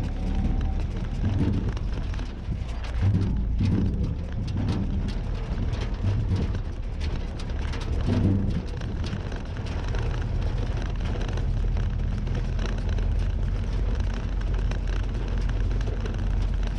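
Willys Jeep engine running after a cold start, a steady low rumble that swells unevenly during the first half and then settles into a more even run.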